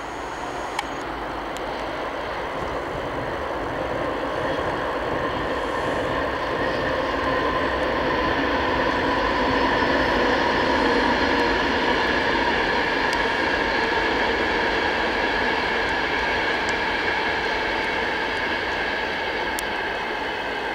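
Class 91 electric locomotive hauling Mark 4 coaches, passing at speed with a steady rush of wheel and rail noise. It builds to its loudest as the locomotive goes by about halfway through, then holds as the coaches run past.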